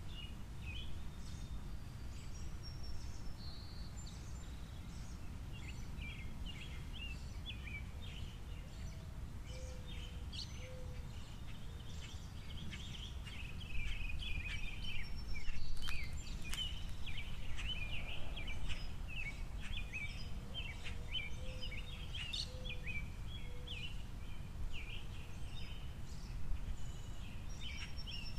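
Small songbirds, finches among them, chirping and twittering in a near-continuous chatter of short high notes, busiest in the middle. Two short runs of a few low, soft hooting notes come through, over a steady low outdoor rumble.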